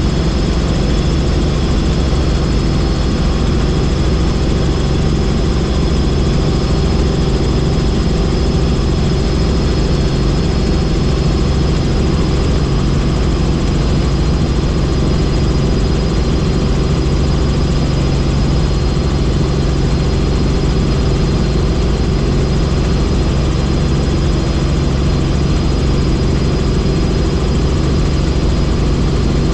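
Tour helicopter running steadily in flight: a constant low drone with a thin high whine above it, unchanging throughout.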